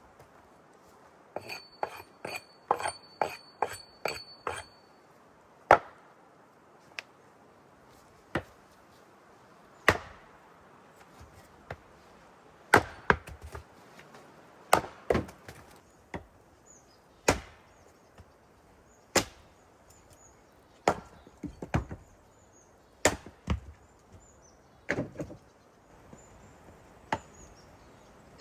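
Axe chopping wood: a quick run of lighter strikes near the start, then single heavy blows about every two seconds.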